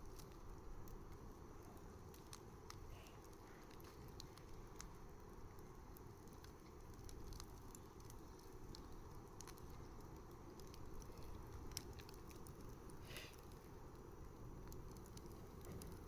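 Wood fire burning: a faint, steady low rumble of flames with scattered small crackles and pops, and one short hiss about thirteen seconds in.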